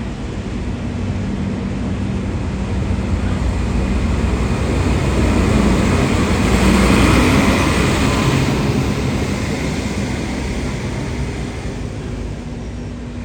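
A vehicle passing by: its noise builds to a peak about seven seconds in and then fades away, over a steady low hum.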